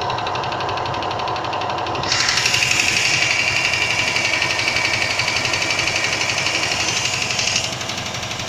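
Range Rover II engine running cold with a rapid, even knock. About two seconds in the knock gets louder and sharper, then drops back near the end.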